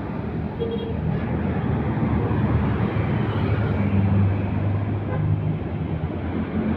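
Heavy truck traffic on a road: a steady low engine drone with tyre and road noise as trucks pass.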